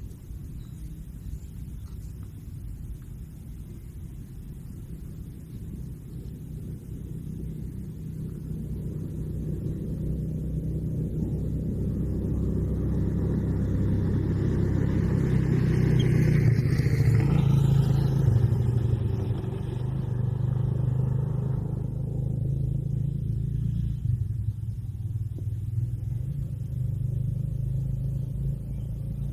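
Low engine rumble of a passing motor vehicle, growing steadily louder to a peak a little past the middle, then easing off somewhat while still running.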